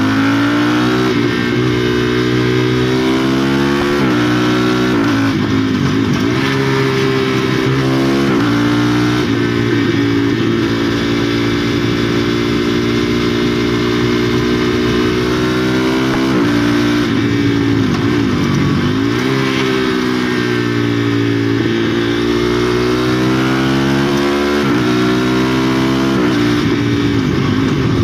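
KTM 390 Duke's 373 cc single-cylinder engine running through a de-cat exhaust while riding. The engine note climbs under acceleration, holds while cruising and dips when easing off for bends, with several sudden drops in pitch at gear changes, over steady wind and road noise.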